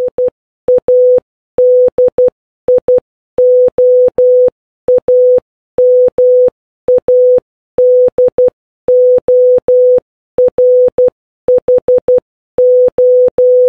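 Morse code sent as a single steady mid-pitched beep, keyed in irregular dots and dashes with short gaps between letters.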